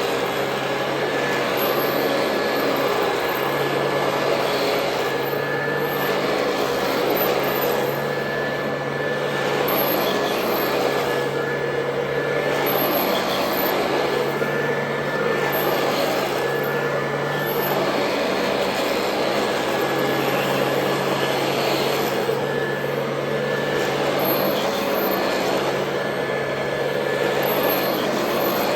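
Royal Model 2008 upright vacuum cleaner running steadily: a constant motor hum with a high whine over a rush of air. The rush swells and eases about every two seconds.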